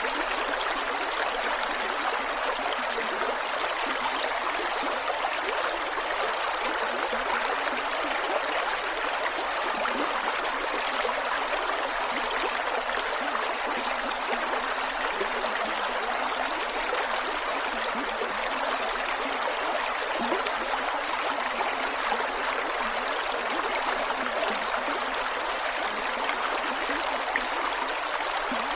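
Creek water flowing over rocks, a steady rushing with small gurgles and trickles throughout.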